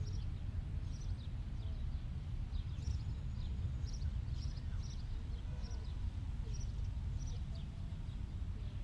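Small birds chirping, short high chirps repeating every second or so, over a steady low rumble.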